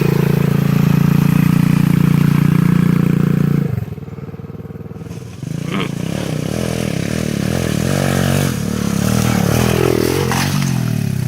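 Irbis TTR 110 pit bike's small single-cylinder four-stroke engine held at high revs, then dropping off sharply about four seconds in. After a click, it revs up and down unevenly as the throttle is worked.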